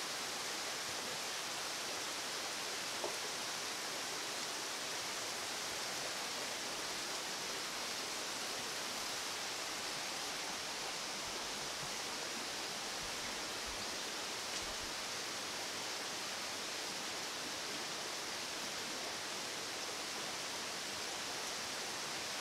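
Heavy downpour with rainwater pouring over overflowing gutters and running across flooded ground, heard as a steady, even hiss.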